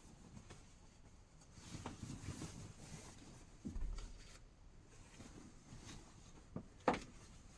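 Quiet handling sounds: faint rustling, a soft low thump about four seconds in, and two sharp clicks near the end, the second the loudest.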